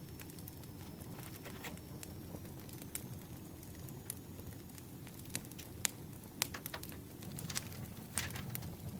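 Campfire crackling: a steady low rumble with scattered sharp crackles and clicks, which come thicker and louder in the second half.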